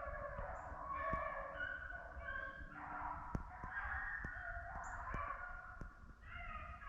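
A pack of rabbit-hunting hounds baying together at a distance, many voices overlapping in a steady chorus: the dogs are in full cry on a running rabbit. A few faint sharp clicks sound over it.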